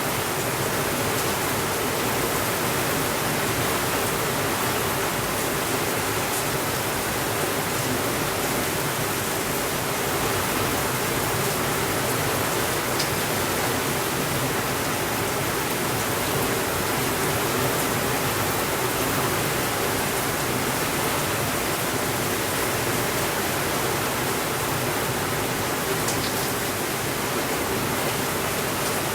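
Steady rainfall, an even unbroken hiss with a few faint ticks.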